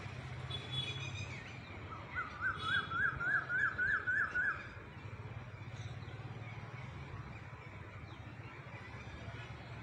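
A bird calling a rapid series of about nine sharp rising notes over some two and a half seconds, with a few brief higher chirps just before.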